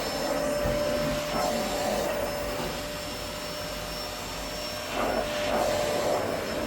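Vacuum cleaner running steadily on carpet, with a constant high whine over a rushing hum that gets louder about five seconds in.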